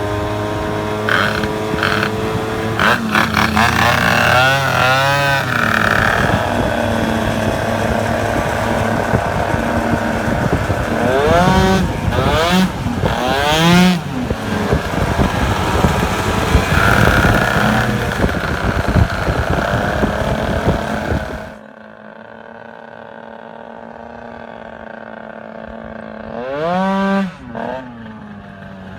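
A tuned 70cc Stage6 MK2 two-stroke scooter engine running hard under load, its pitch sweeping up and down through repeated accelerations. About three-quarters of the way through it drops to a steady idle, with one short rev blip near the end.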